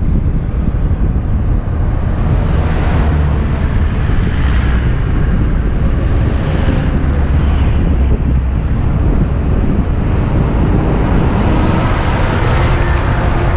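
Heavy wind buffeting on a helmet-mounted action camera's microphone while riding a bicycle at speed: a steady, loud rumble.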